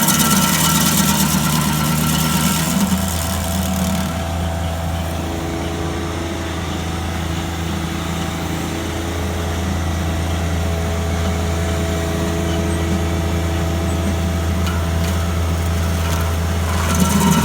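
An engine running steadily. It drops to a lower, softer note about three seconds in, then comes back up near the end.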